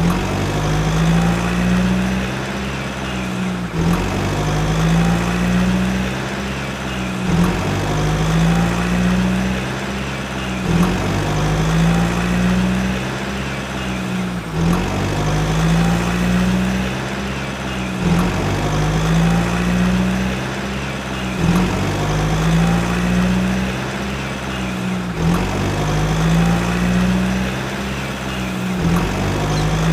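Recorded tractor engine sound playing on a loop, the same pattern repeating about every three and a half seconds.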